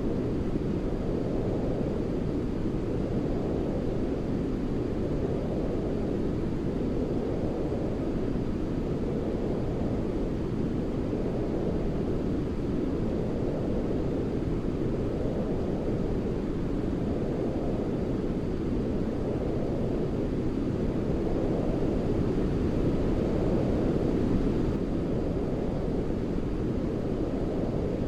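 Continuous deep sleep-aid noise, a low rumbling hiss that sounds more like brown noise than bright white noise, with a gentle rise and fall every couple of seconds. It swells slightly louder about three-quarters of the way through.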